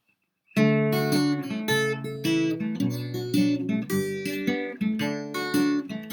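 Acoustic guitar playing a strummed chord introduction, starting suddenly about half a second in.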